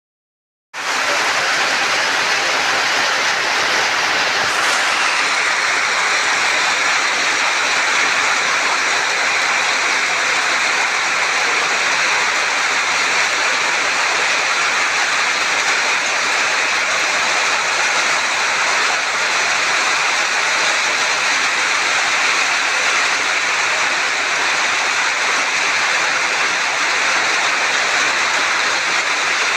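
Rain falling, a steady even hiss that starts abruptly about a second in.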